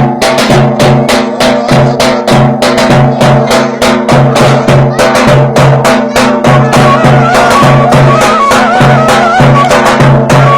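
Turkish folk dance tune (oyun havası): a drum beats a steady, fast rhythm of about three to four strokes a second under a droning, ornamented reed-instrument melody.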